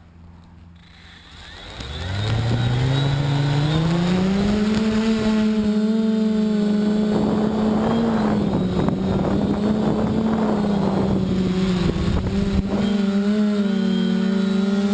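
Multirotor drone's electric motors and propellers spinning up, a hum rising quickly in pitch about two seconds in, then holding steady with small wavers as the craft lifts off and hovers. Rushing wind noise joins in the middle.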